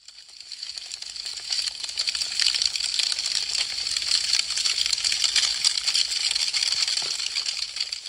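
Wood fire crackling, with a dense run of small sharp pops and snaps. It swells in from silence over the first couple of seconds and begins to fade near the end.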